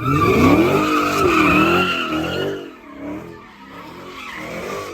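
Car doing a burnout: the tyres squeal steadily while the engine revs up and down. About two and a half seconds in, the squeal dies away and the engine drops to a lower level, then revs again near the end.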